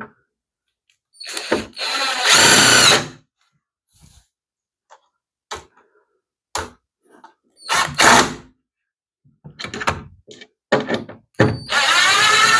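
Power drill run in several short bursts, its motor whine rising as it spins up each time, boring through plastic where a screw hole was not drilled out all the way. Short clicks and knocks between the bursts.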